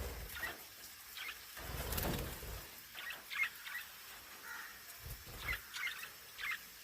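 Budgerigars chirping: short, scattered high chirps, several in quick clusters. Two low rumbles are heard, one about two seconds in and one near five seconds.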